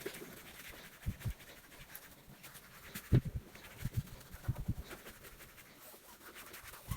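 Scrubbing and wiping while cleaning a floor and surfaces, with faint scratchy rubbing and a series of short soft thumps, several close together around the middle.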